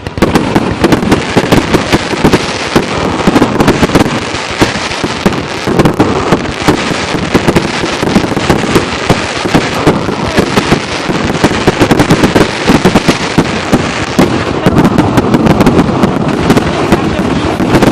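Fireworks going off in a dense, continuous barrage of rapid bangs and crackles, many per second, with no let-up.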